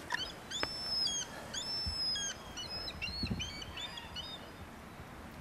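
Bird calling: a rapid run of short, high, piping notes, repeated many times over about four and a half seconds before dying away.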